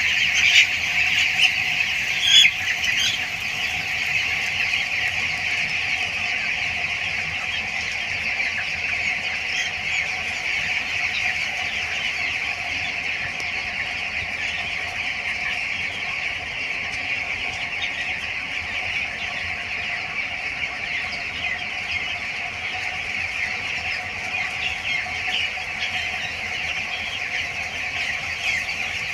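A dense, steady chorus of peeping from a shed full of two-week-old broiler chicks, with a couple of louder calls in the first few seconds.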